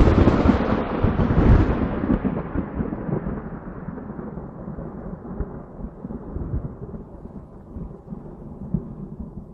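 Thunder: a loud peal in the first two seconds that settles into a long, low rumble, slowly fading.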